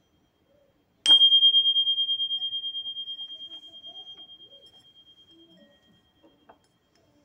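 A small bell or glass struck once about a second in, ringing one clear high tone that wavers steadily and fades away over about five seconds.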